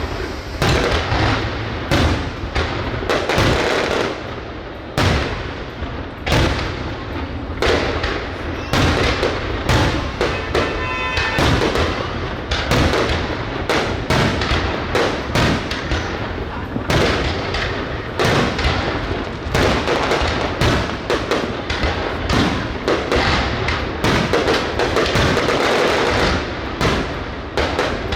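Fireworks display: a dense, continuous barrage of bangs and booms from shells going off in quick succession, with a brief whistling tone about eleven seconds in.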